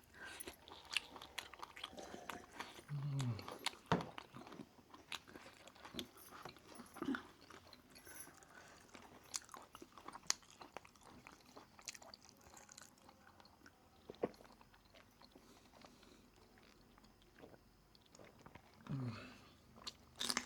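Close-miked eating sounds: chewing with scattered crunchy bites and small mouth clicks, broken by a few short low vocal hums.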